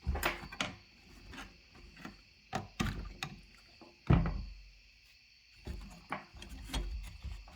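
Irregular clicks, knocks and scraping of hand work on a stuck part during a fuel-pump replacement, with one heavy thump about four seconds in.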